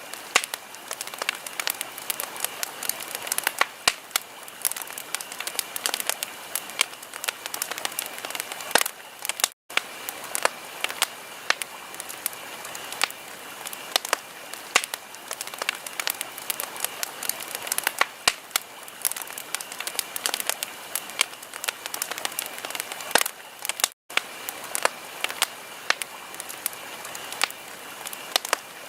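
Wood fire crackling: frequent sharp pops and snaps over a steady hiss. The sound cuts out for an instant twice.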